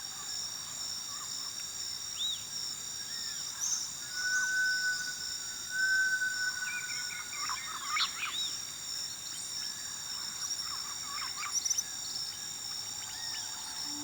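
Nature ambience: several birds chirping and whistling, one with a long drawn whistle and a burst of calls in the middle, over a steady high-pitched insect drone.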